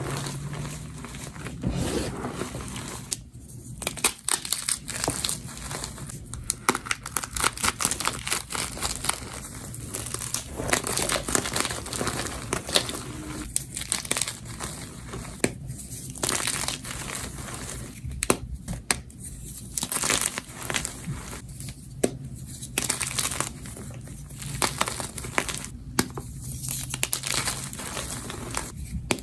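Block of gym chalk being crumbled and crushed by hand, giving dense, irregular crunching and crackling with a few short pauses.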